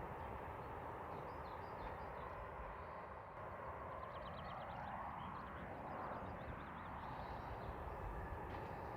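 Outdoor ambience: a steady low rumble with a faint passing rise and fall in pitch, and a quick run of small bird chirps about halfway through.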